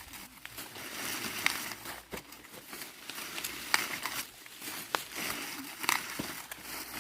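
Dry rustling and crinkling, with about six sharp snaps or cracks scattered through it.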